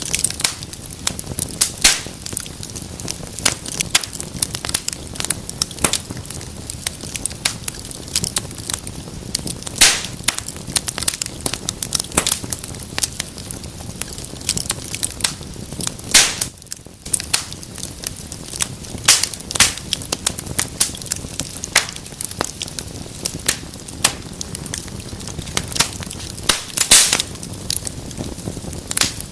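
Wood fire burning in a fireplace: a steady hiss under frequent sharp crackles and pops at irregular intervals, with a brief lull about two-thirds of the way through.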